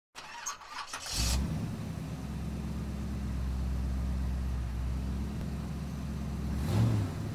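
Sports car engine starting up about a second in, then idling steadily, with a short rise in revs near the end.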